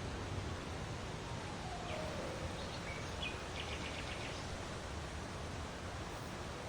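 A bird chirps in a quick cluster of short notes a couple of seconds in, over a steady rushing outdoor noise.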